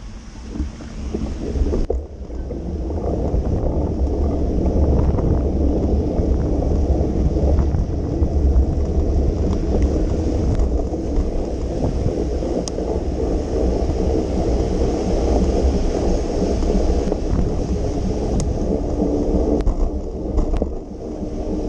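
Wind buffeting the microphone of a moving bicycle with a steady low rumble, over a constant hiss of rain and wet road.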